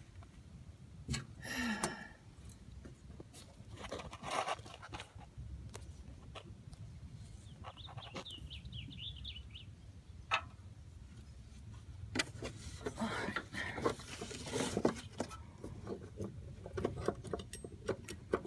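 Scattered clicks, knocks and light rattles of hands working a lawnmower's drive belt and metal deck parts, busiest a little past the middle. About eight seconds in there is a brief run of rapid high chirps.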